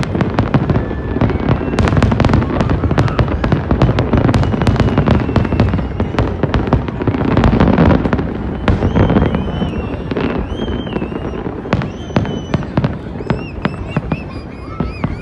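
Aerial fireworks display: a dense barrage of rapid bangs and crackling shell bursts, heaviest through the first half and thinning a little after that, with short high whistling tones over it in the second half.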